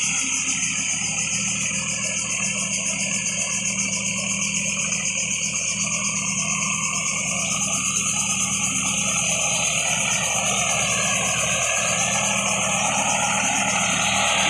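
Sonalika DI 50 RX tractor's diesel engine running steadily, with a steady high hiss alongside.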